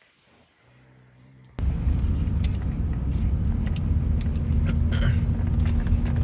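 A vehicle's engine running with a steady low rumble, cutting in suddenly about a second and a half in after a faint hum.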